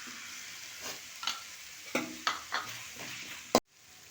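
Chopped onions, capsicum and chillies with sauce sizzling in hot oil in a pan, with a spatula knocking against the pan about five times as it is stirred. The sound cuts off abruptly near the end.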